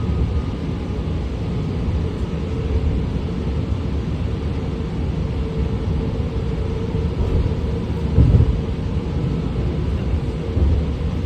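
Cabin noise of a BART Fleet of the Future train running between stations: a steady low rumble of wheels on track, a faint steady hum from the drive, and one louder bump about eight seconds in.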